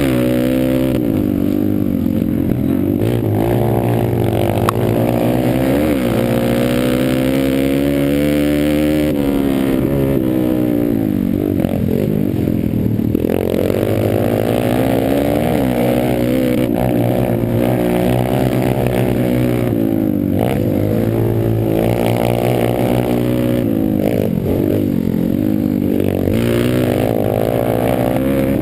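Pit bike engine revving hard and easing off again and again while racing on a motocross track, its pitch climbing and falling every second or two as the rider works the throttle and gears.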